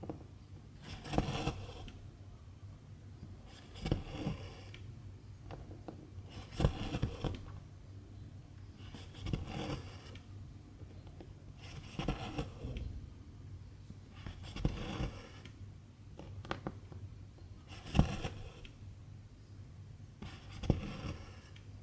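Needle and silk thread being pulled through cross-stitch fabric: a short swish with a sharp tick about every two and a half to three seconds, one pull per stitch, over a low steady hum.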